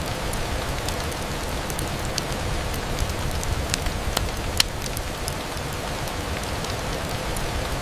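Steady rain on a window, a constant hiss with a low rumble under it and scattered sharp clicks of drops, the loudest about four and a half seconds in.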